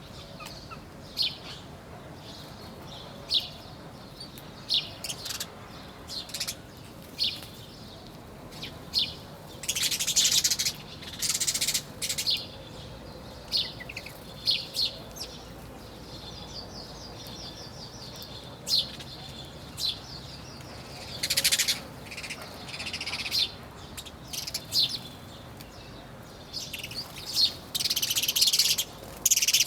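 Birds chirping: short high chirps about once a second, a rapid trill of repeated notes partway through, and several louder, harsher bursts of chatter.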